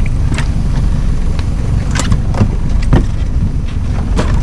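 A fishing boat's motor running with a steady low rumble, with about five sharp knocks and clatters of gear on the deck.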